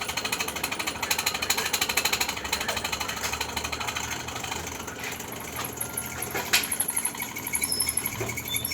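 Electric arc welding: a dense, rapid crackling and sputtering from the welding arc, strongest in the first few seconds and easing after about five seconds, with one sharp click about six and a half seconds in.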